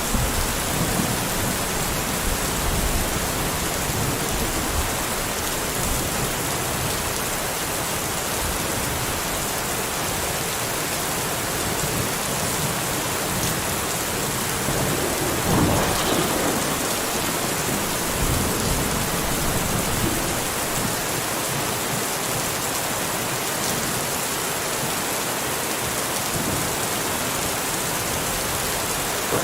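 Steady, dense rain, with a brief louder rumble about halfway through.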